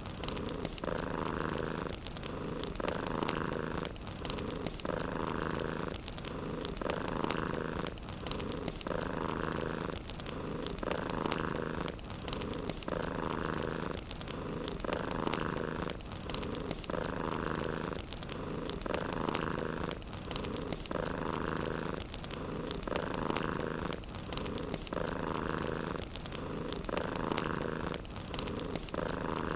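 Domestic cat purring close to the microphone, the purr swelling and easing evenly about once every two seconds with its breathing, over light fireplace crackling.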